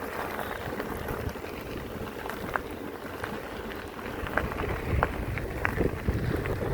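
Bicycle tyres rolling along a track: a steady crunching hiss with scattered small ticks. A low rumble grows louder after about four seconds.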